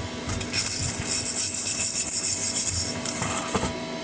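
A wire brush scrubbing over a fresh flux-core weld on steel to clear off the slag, in scratchy strokes with a short break near the start and another about three seconds in.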